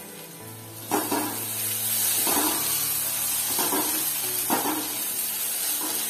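Potato strips frying in oil in a nonstick kadai, sizzling louder from about a second in, while a spatula stirs and scrapes through them about five times.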